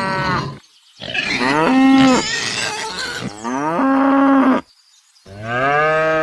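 A cow mooing: four long, drawn-out moos with short pauses between them, each sagging in pitch at the end.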